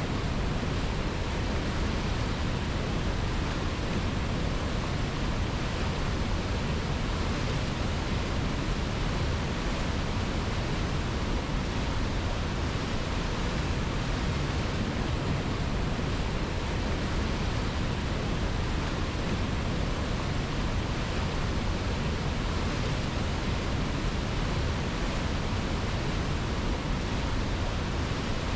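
Steady, unbroken rushing of a river, an even wash of water noise with no splashes or changes.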